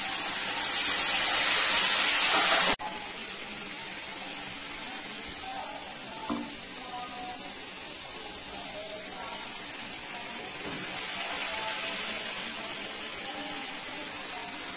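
Chicken frying in a hot pan with a loud sizzle that cuts off suddenly about three seconds in. It gives way to a quieter, steady hiss with faint voices in the background.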